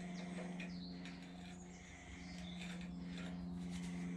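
Faint clicks and light knocks of hand tools on metal over a steady low hum.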